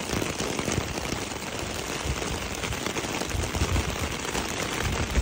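Rain falling on a car's roof and window glass: a dense, even run of small drop hits, with a few low rumbles in the second half.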